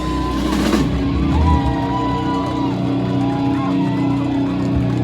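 Live rock band ending a song: the drums and bass stop about a second and a half in, leaving held guitar notes ringing through the amps while the crowd cheers and whoops.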